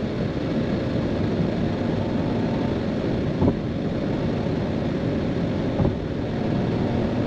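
Steady road and tyre noise inside a car cruising on a motorway, a low even rumble, with two brief knocks about three and a half and six seconds in.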